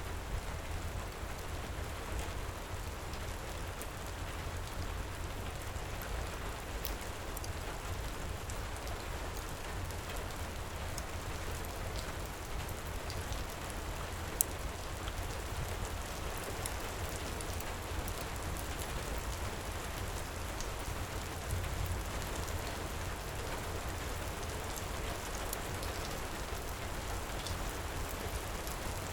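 Steady heavy rain, with a low rumble underneath, mixed with a fireplace crackling in scattered sharp ticks and one louder snap about halfway through.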